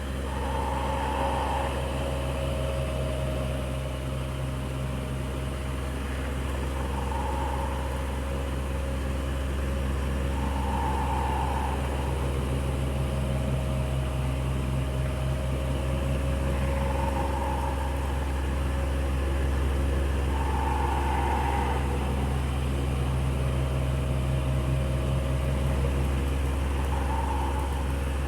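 Electric fan running steadily: a low motor hum with a few steady tones and airflow hiss, and a brighter whoosh that swells briefly every four to six seconds.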